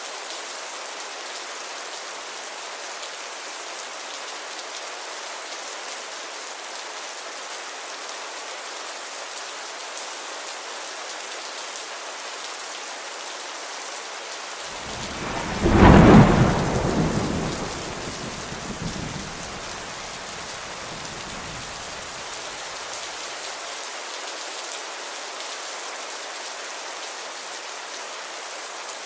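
Steady rainfall, with a rumble of thunder about halfway through that swells quickly, rolls on for several seconds and fades away.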